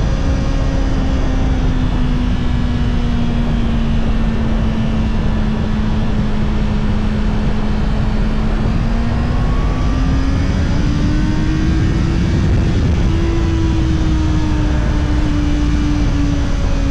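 Honda CBR650R's inline-four engine with its stock exhaust, running at a steady cruise under wind and road noise. The engine note sags slightly, rises as the bike picks up speed about two thirds of the way through, then eases off a little.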